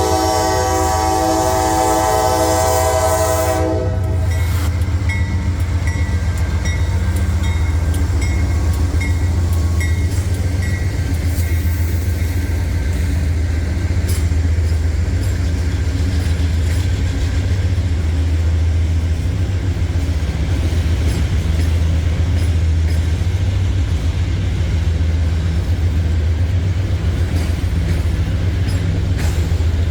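Diesel locomotive air horn sounding a chord of several notes, cutting off about three and a half seconds in. The locomotive's diesel engine then drones steadily while the train's wheels clatter along the rails.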